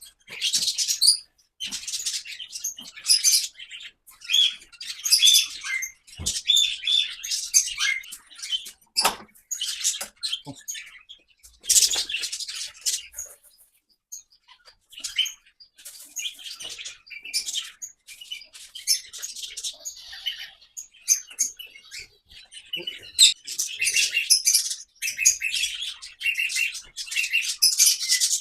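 A flock of small aviary birds, parrots and finches, chirping and calling over one another in clusters of high, quick notes, with a few short sharp knocks in between.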